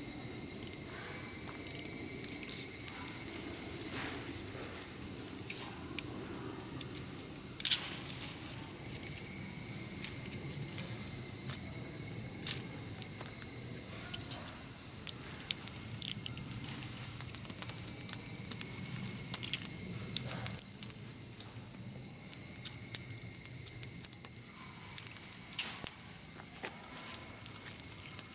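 A steady, high-pitched chorus of summer insects, with scattered sharp pops and crackles from a wood campfire.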